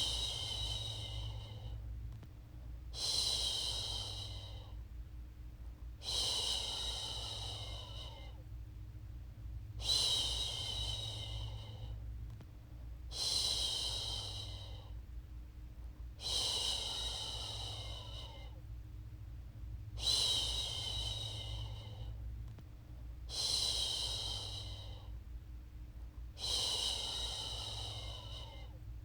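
A woman's voice shushing a baby to sleep: a long, soft "shhh" repeated nine times at a steady pace, about every three to four seconds, each fading away, over a faint steady low hum.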